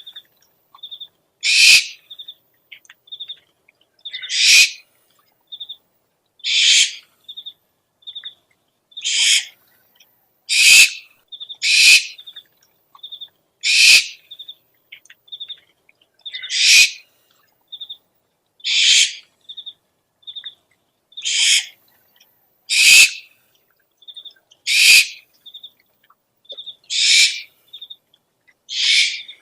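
Owl lure recording: an owl giving harsh, hissing screeches about every two seconds, with short high pips in twos and threes between them.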